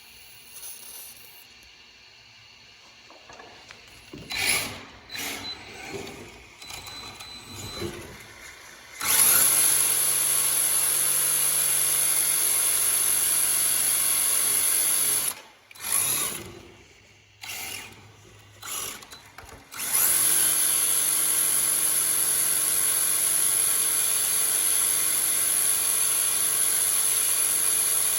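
Electric RC drift car (MST RMX 2.0) held at full throttle with its tyres spinning in place in a burnout attempt, the tyres wet with WD-40. A few short throttle blips, then a steady high motor whine for about six seconds; it cuts out, blips a few more times, and holds the steady whine again from about two-thirds in.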